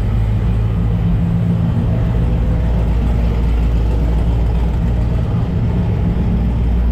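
Loud car engine running steadily at idle with a low, even rumble.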